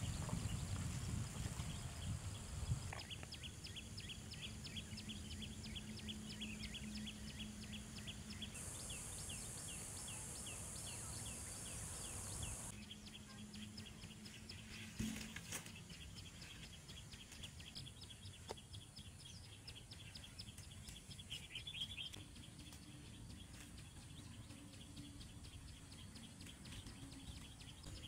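Open-country ambience: a rapid series of high chirps, about three a second, over a steady high hiss, louder in the first half and fainter later.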